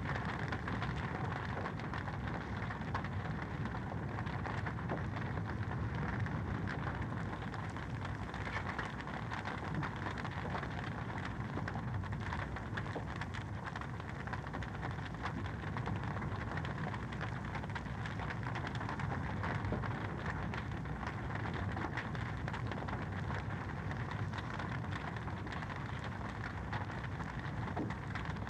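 Wood fire in a fireplace crackling steadily: a dense run of small pops and snaps over an even rushing noise.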